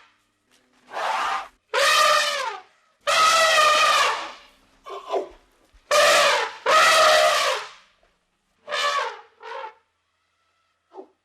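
Elephant trumpeting: a run of about eight loud calls, each up to about a second long, separated by short silences, several coming in quick pairs.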